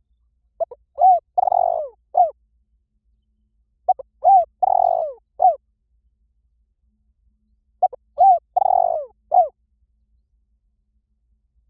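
Spotted dove cooing, used as a lure call: three identical coo phrases about three and a half seconds apart. Each phrase is two short notes, a longer note and a short final note.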